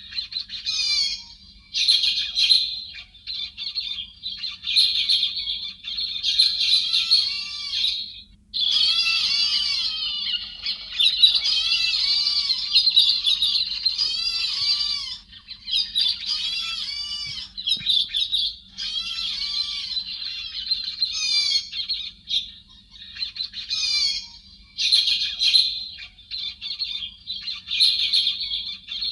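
Thrush known in Vietnam as héc xoan giving a dense, fast run of high-pitched chattering and warbling calls, with short pauses between bursts.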